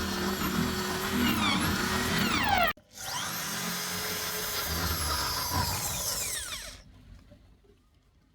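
Handheld electric power tool running in two bursts, its motor pitch sagging and recovering as it works. It stops abruptly a little under three seconds in, starts again, and winds down with a falling whine about six and a half seconds in.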